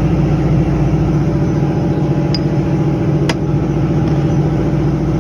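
An engine running steadily in the background with a low, even hum, and two sharp clicks from parts being handled, about two and a half and three and a half seconds in.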